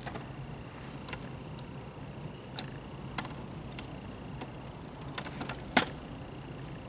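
Scattered light clicks and knocks at irregular intervals, the loudest a little before the end, over a steady low hum.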